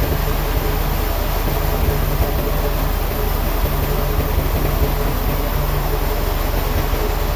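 Heavy machinery running steadily, with a constant low hum and a steady tone.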